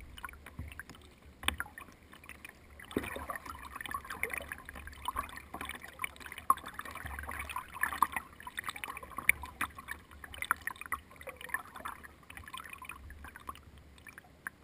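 Water splashing and lapping against a kayak, with irregular small splashes and knocks and a low rumble underneath.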